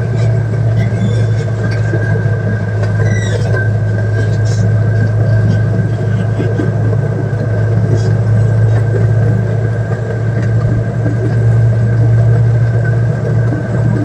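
Zoo train's engine running steadily: a low, even hum with a thin steady whine above it.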